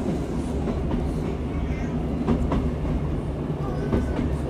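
Steady low rumble of a train heard from inside the carriage as it runs along the line, with a few clicks of the wheels over rail joints.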